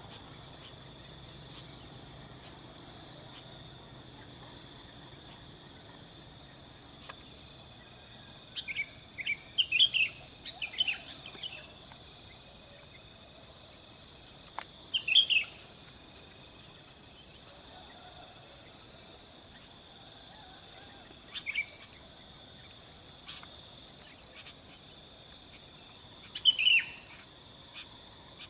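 Sooty-headed bulbul giving short chirping, whistled phrases: a cluster of them about eight to eleven seconds in, then single calls every five or six seconds. Under them a steady, high insect chorus with a fast pulsing buzz.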